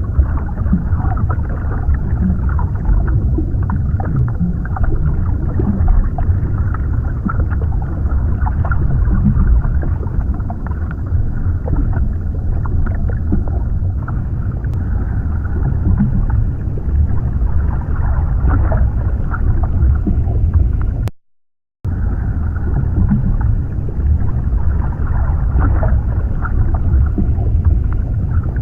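Underwater ambience: a steady low wash of water as heard beneath the surface, with small scattered crackles. The sound cuts out completely for under a second about three-quarters of the way through.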